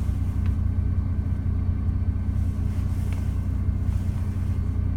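Steady low drone inside a parked lorry's cab, with a couple of faint light clicks.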